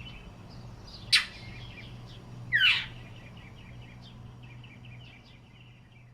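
Northern mockingbird giving two loud, harsh calls about a second and a half apart, the second sweeping downward, over faint twittering from other birds. These are calls, not song, which the uploader takes for the bird guarding a nest close by.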